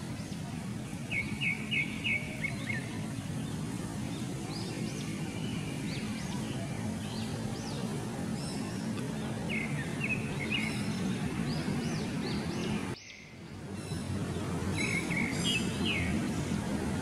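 Small birds chirping in short quick series over a steady low background rumble, with the sound briefly dropping away about thirteen seconds in.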